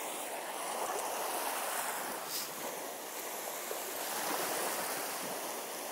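Small waves washing onto the shore in a steady, even wash of water.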